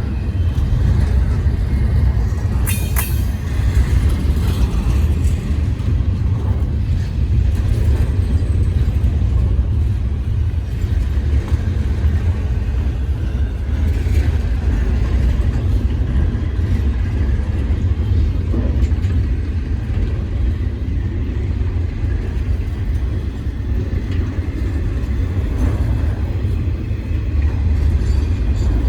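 Freight train rolling past with a steady low rumble, with a brief sharp noise about three seconds in.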